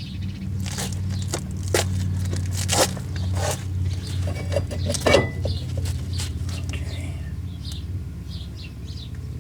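A power tool's motor running steadily, with sharp metallic clicks and knocks over it, as the new rear wheel hub is fastened back on.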